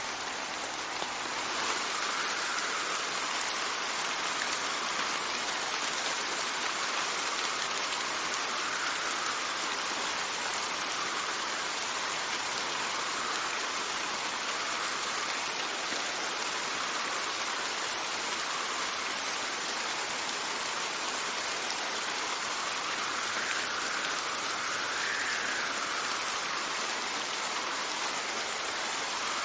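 Steady rain falling, a continuous even hiss, with wind gently swelling and easing every few seconds.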